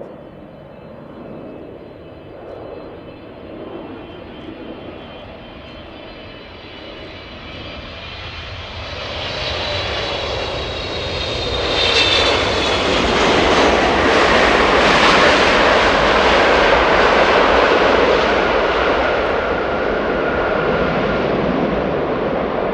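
Twin GE90-115B turbofans of a Boeing 777-300ER passing close by: a high fan whine builds, then a broad jet roar swells to its loudest about halfway through and eases off slightly toward the end.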